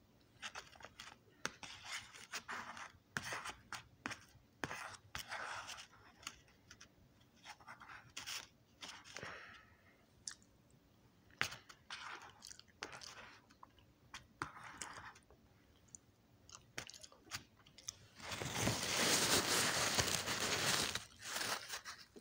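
A person chewing and crunching food close to the microphone, in short irregular bites with scattered clicks. Near the end comes a loud rush of rustling noise lasting about three seconds as a paper napkin is used at the face.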